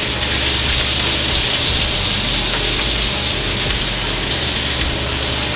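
Asparagus and basil pesto sizzling steadily in an oiled sauté pan: an even frying hiss.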